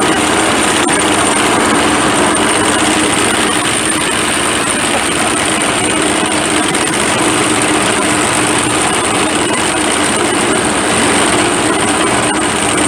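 Massey Harris Pony tractor engine running steadily, with a steady high whine above it.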